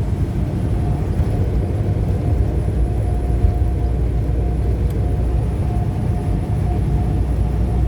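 Steady low rumble of a truck's engine heard from inside the cab, with a faint steady hum above it.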